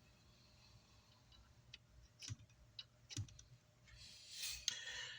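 A few faint, sharp clicks and taps, with a brief rustle about four seconds in: small electronic parts being handled on a workbench.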